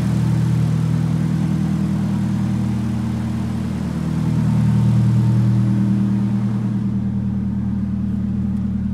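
Nissan SR20DET turbocharged four-cylinder engine idling steadily, growing a little louder for a moment about halfway through. It is running smoothly on a new alternator, the misfire caused by the dying old alternator gone.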